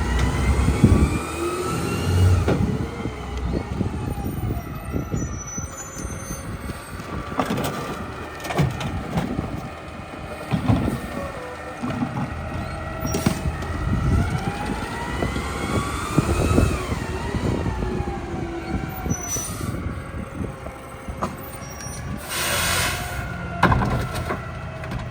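Mack LEU garbage truck with a New Way rear loader packing: the engine and hydraulics rise and fall in pitch twice as the packer cycles, with clanks and bangs of trash and metal throughout and a burst of air hiss near the end.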